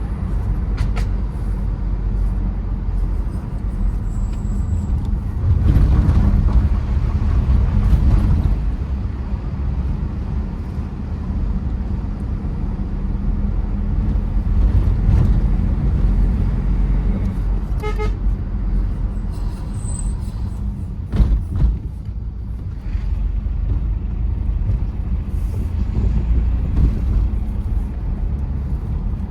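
Tata Safari Storme diesel SUV driving on a hill road: steady engine and road noise that swells for a couple of seconds early on, with a few sharp knocks about three-quarters of the way through.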